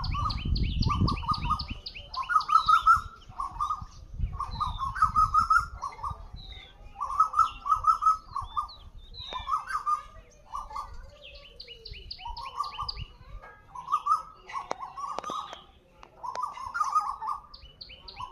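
Asian koels, male and female, calling back and forth: bouts of rapid repeated notes, each about a second long, recurring every second or two, with a higher, quicker series of notes overlapping at times. A low rumble sits under the first few seconds.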